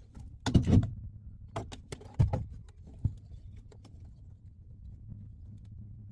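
A handful of short knocks and clatters, bunched in the first two and a half seconds with a single tap about three seconds in, over a low steady hum.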